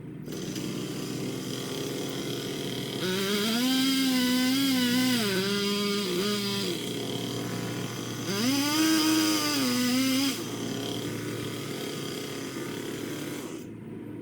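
A small engine runs up twice, for about three seconds and then two, its pitch rising, holding and sagging each time, over a steady lower engine hum.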